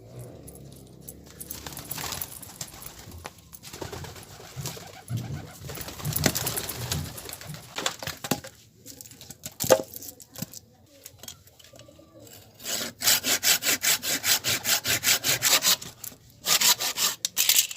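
Handsaw cutting firewood. Irregular knocks and scraping give way, past the middle, to fast, even back-and-forth saw strokes, about four or five a second, broken by one short pause.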